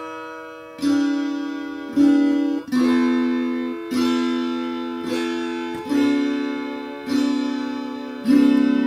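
Background music: plucked guitar notes and chords with no singing. A new note or chord starts about once a second, and each rings out and fades.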